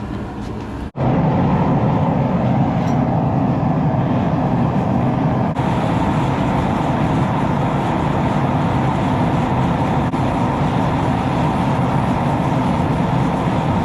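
Blacksmith's forge running with a loud, steady rushing noise, getting suddenly louder about a second in.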